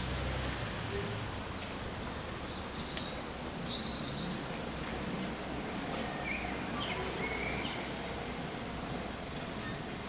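Small birds chirping in short high calls over a steady low background rumble, with one sharp click about three seconds in.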